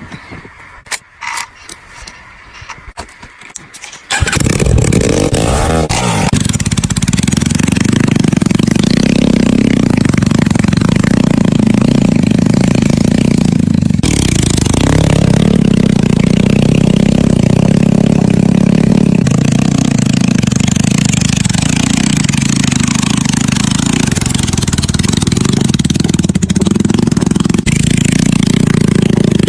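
A few light clicks and knocks, then about four seconds in a motorcycle engine starts abruptly, its pitch sweeping briefly as it catches, and runs loud and steady.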